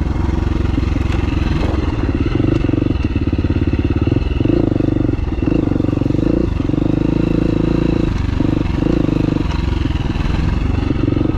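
Dirt bike engine running at low trail speed, its rapid firing pulses steady with small rises and dips in throttle.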